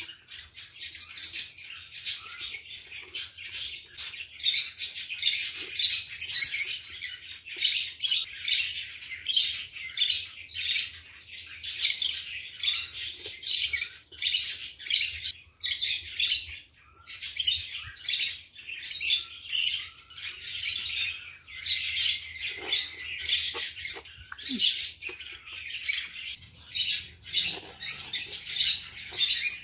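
Birds chirping busily and without pause: many rapid, overlapping high chirps, very noisy.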